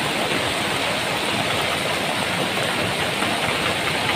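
Steady rush of floodwater, an even, unbroken noise of fast-flowing water.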